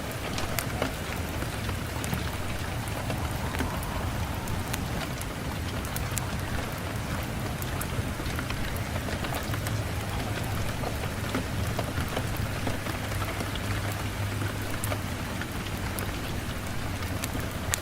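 Steady rain, a dense even hiss over a low steady rumble, sprinkled throughout with sharp ticks and crackles from a log fire.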